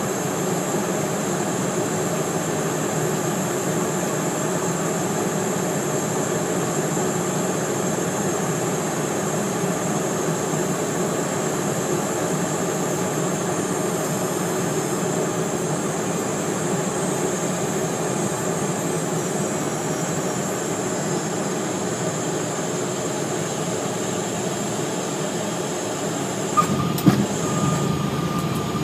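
Steady cockpit noise of a Cessna Citation Mustang on final approach and landing: its twin Pratt & Whitney PW615F turbofans and the rushing air, with a steady high whine over it. A few clicks and a short tone come near the end.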